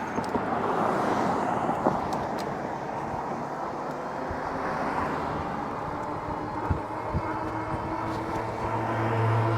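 Wind buffeting the microphone with road noise while riding an e-bike, with a motor vehicle's steady hum building in the second half and loudest near the end.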